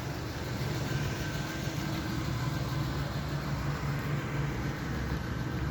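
Pickup truck's carbureted engine idling steadily.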